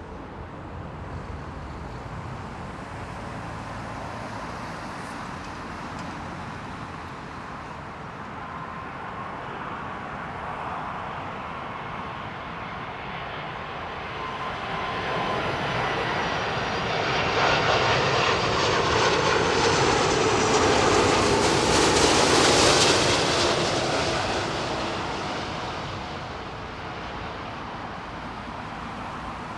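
Jet airliner on final approach passing the spotting position: the engine noise builds gradually, is loudest about two-thirds of the way through, then fades away, with faint whines sliding in pitch as it passes.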